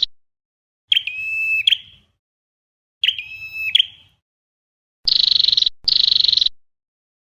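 Flowerpecker calls, played as a looped lure recording. A buzzy trill ends just after the start. Two sharp high chirping calls come about a second in and about three seconds in. Near the end there are two rapid buzzy trills back to back, about five seconds in.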